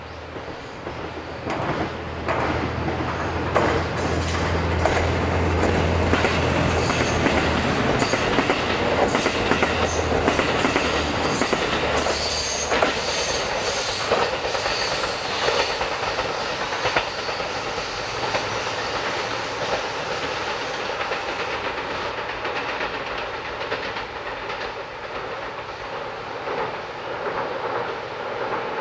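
Yufuin no Mori diesel express train running through a station, its wheels clattering over the rail joints. It grows louder over the first few seconds and then fades slowly, with a high ringing from the wheels for a few seconds near the middle.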